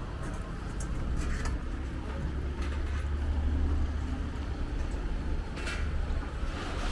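Low, steady rumble of road traffic on a city street, swelling for a second or so partway through, with a few faint clicks.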